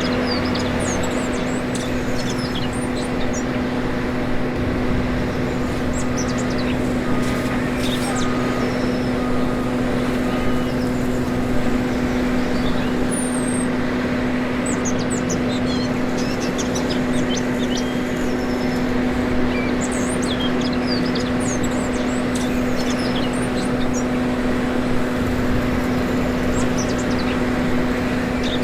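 Steady motor hum from a 1/14-scale RC construction machine, one even pitch with overtones that does not change, with birds chirping in the background.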